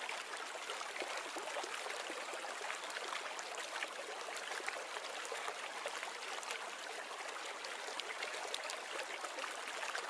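Fast-flowing floodwater rushing, a steady, even sound of moving water.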